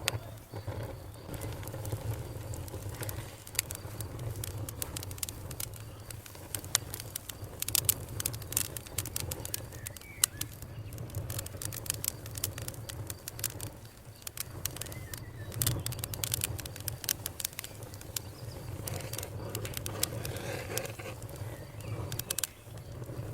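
Campfire crackling and popping: dense, irregular sharp snaps over a low, steady rumble.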